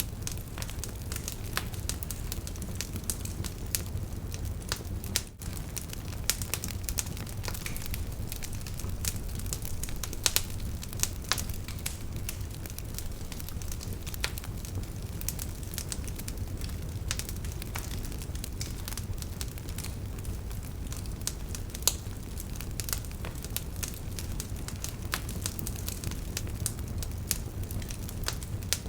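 Wood fire burning in a fireplace, with a steady low rumble and frequent sharp crackles and pops throughout.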